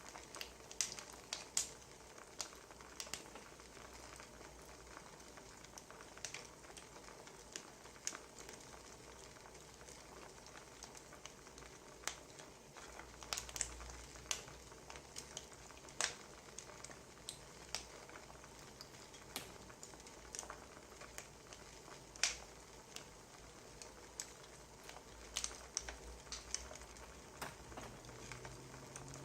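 Wood fire crackling: irregular sharp pops and snaps, a few louder than the rest, over a soft steady hiss.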